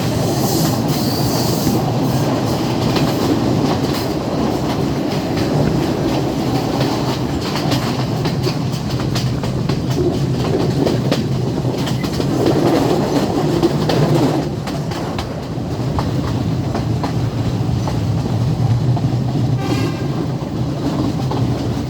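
Train running along the track with a steady rumble and wheels clacking over rail joints, heard from on board.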